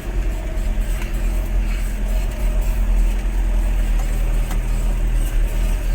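Vehicle engine running steadily with a low rumble while driving, heard from on board.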